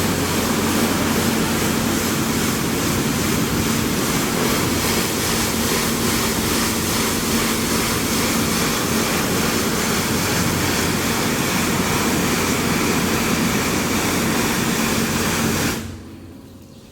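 T-818 touchless car wash machine spraying high-pressure water, a steady rushing hiss over the hum of its pump. It cuts off suddenly about a second before the end.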